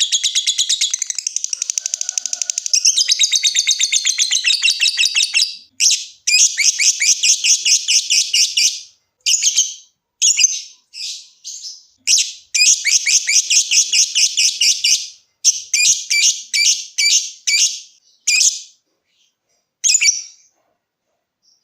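Lovebird giving rapid, high chattering trills (the long 'ngekek' song that keepers play to draw other lovebirds into singing): an unbroken run for about five seconds, then a string of shorter bursts with brief pauses, tailing off near the end.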